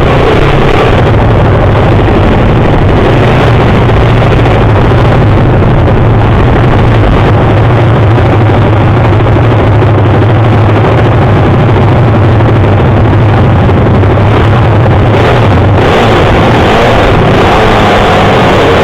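Pit bike engines running hard in a speedway race: a loud, continuous engine drone with a strong low hum that holds steady and eases slightly near the end.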